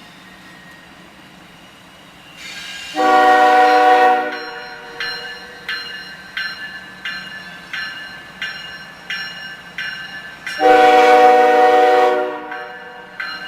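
Locomotive air horn sounding two long blasts of a chord, with a bell ringing about twice a second between them, over the low rumble of a passing train.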